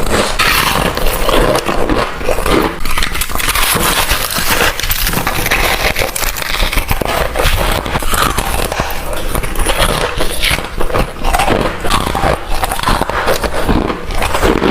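Freezer frost being bitten and crunched between the teeth, close to the microphone: a dense run of crackling, crunching bites.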